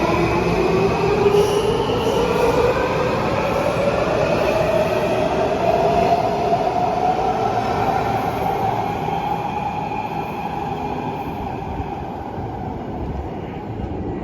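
Washington Metro train's electric traction motors whining, the whine rising steadily in pitch as the train picks up speed, over the rumble of its wheels; the sound slowly fades as it moves off.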